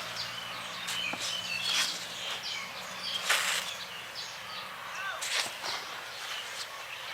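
Small birds chirping repeatedly in the background, with four short swishing noises over them, the loudest sounds.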